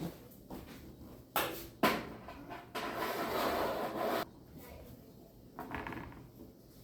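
Kitchen handling sounds while dehydrator trays of halved cherry tomatoes are loaded: two quick knocks, then a scraping rub lasting about a second and a half.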